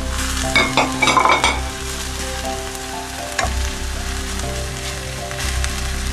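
A wooden spoon stirs shredded chicken and vegetables sizzling in a stainless steel frying pan. There is a burst of scraping and clatter about half a second to a second and a half in, and a sharp knock about three and a half seconds in.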